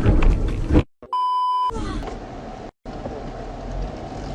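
Loud vehicle noise cuts off abruptly, a short steady electronic beep sounds for about half a second, then steady vehicle and road rumble follows.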